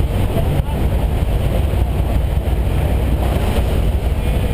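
Steady, loud drone of a skydiving aircraft's engine and propeller heard from inside the cabin, a low rumble with rushing air on top.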